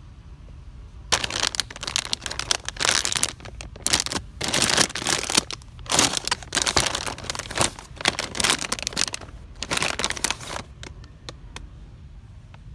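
Loud, irregular crinkling and rustling, like plastic or packaging being handled close to the microphone, starting about a second in and stopping about two seconds before the end.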